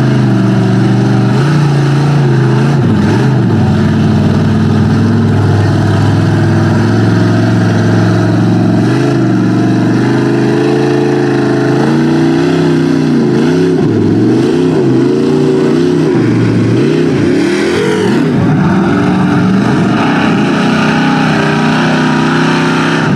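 Lifted Chevy mud truck's engine running loud under heavy throttle, revving up and down repeatedly through the middle stretch before settling back to a steady high pull.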